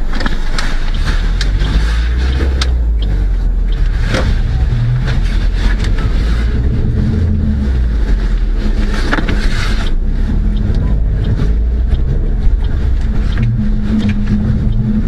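A car's steady low engine and road rumble heard from inside the cabin, with occasional light clicks and knocks.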